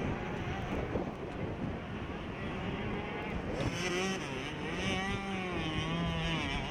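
Small two-stroke 65cc motocross bikes racing, their engines revving up and down. From about three and a half seconds in, a closer engine note rises and wavers above the rest.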